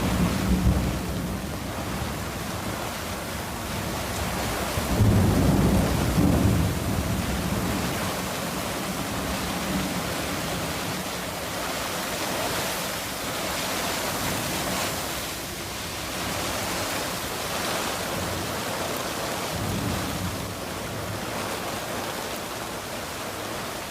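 Hurricane Ian's wind and heavy rain: a steady rush of storm noise, with low rumbling gusts buffeting the microphone about a second in and again around five to seven seconds in.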